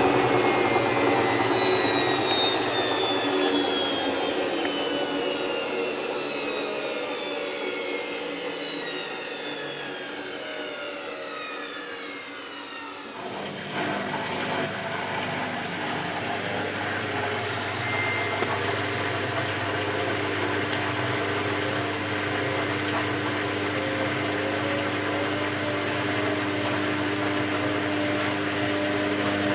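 Hoover VisionTech washing machine's drum motor winding down at the end of a spin, a whine of several tones falling steadily in pitch. About halfway through, a steady machine hum with a low electric drone takes over.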